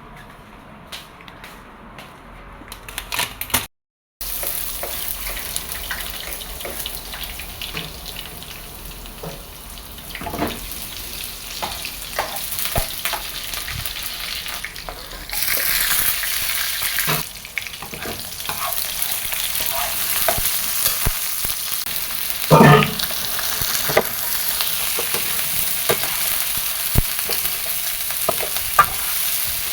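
Food sizzling as it fries in a pan, with a utensil stirring and clicking against the pan. The sizzle starts after a brief cut about four seconds in, and one sharp clack stands out about two-thirds of the way through.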